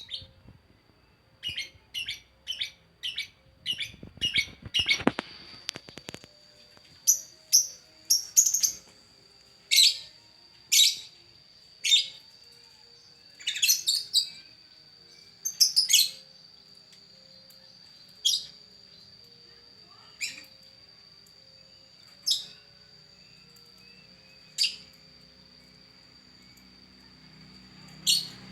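Luck bird calling in a courting, lovestruck state: a quick run of sharp chirps, then single chirps spaced a second or two apart that grow sparser. A steady faint high whine runs beneath from about five seconds in.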